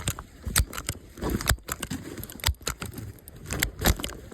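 Irregular clicking and rustling close to the microphone, with a few sharper knocks, like gear or clothing being handled.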